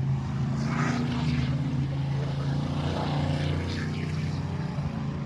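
Monster truck engines running with a steady low drone, the pitch shifting a little partway through.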